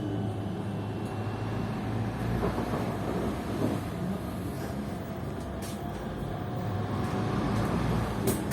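Inside a PKTS-6281.01 'Admiral' trolleybus: a steady low hum and rumble from the vehicle, with a faint tone rising near the end and a few short sharp clicks in the second half.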